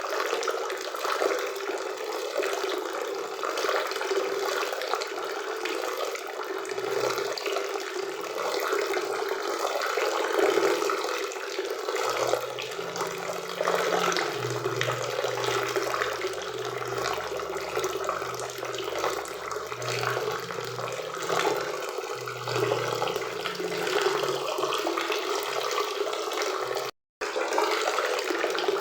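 Waterfall and river water rushing in a steady, even wash. A faint low hum sits underneath for about ten seconds in the middle, and the sound cuts out for a split second near the end.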